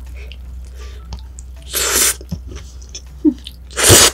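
Close-miked eating: chewing with small wet clicks, broken by two loud, short, noisy bursts, one about two seconds in and one at the end.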